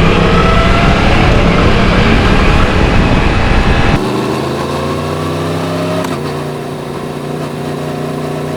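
Yamaha MT-10 crossplane inline-four motorcycle engine rising in pitch as it accelerates under heavy wind rush. About four seconds in, the wind noise drops away suddenly and the engine runs on steadily. Around six seconds in there is a click and a step in engine pitch.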